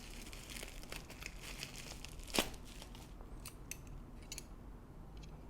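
Quiet crinkling of packaging as rotisserie-kit skewers are handled, with one sharp click about two and a half seconds in, then a few light ticks.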